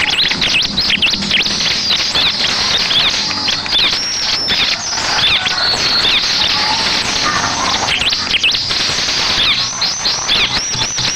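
Bar-winged prinia (ciblek) singing: a loud, dense stream of quick high chirps and trills, ending with a fast run of repeated arched notes near the end.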